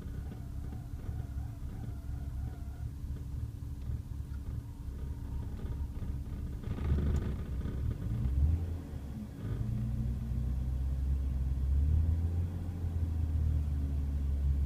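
BMW E36 M3 straight-six engine idling roughly and unevenly, with a brief louder surge about seven seconds in, a dip a couple of seconds later, and a heavier, louder rumble through the last few seconds. A low, bouncing idle on cold start, which the owner suspects is a vacuum leak.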